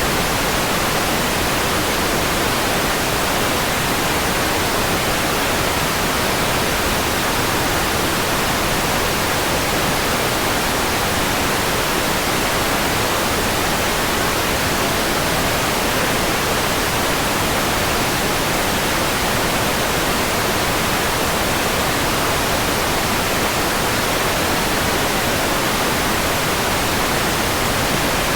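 Steady white noise: an even, unchanging hiss spread across all pitches, with no breaks or variations.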